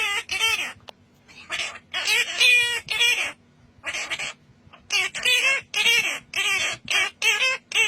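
A parrot calling over and over, about a dozen short calls in quick groups with brief pauses between them.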